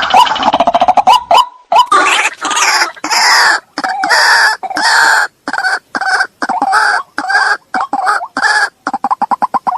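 White-breasted waterhen (ruak-ruak) calls from a recorded lure track: a run of loud, harsh call notes with short gaps between them, turning into a burst of quick short notes near the end.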